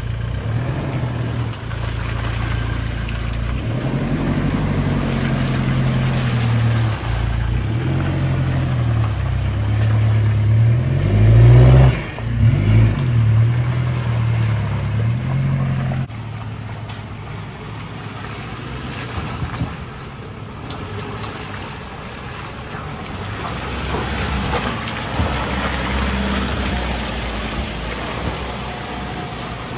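Four-wheel-drive truck's engine revving up and down under load as it works through a rough off-road section, loudest about twelve seconds in, then easing to a lower, quieter running and building up again near the end.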